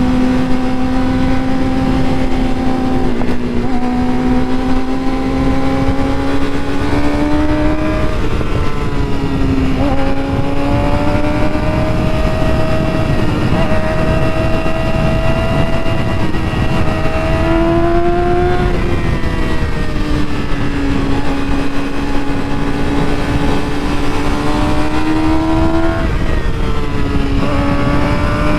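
Motorcycle engine under way heard from the rider's own bike, its note climbing slowly as it pulls and dropping sharply a few times as the rider shifts or rolls off the throttle. A heavy rumble of wind noise on the microphone runs underneath.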